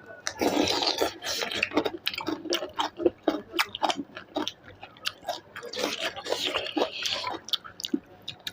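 Close-up eating sounds: a person chewing chicken, with many irregular wet clicks and smacks.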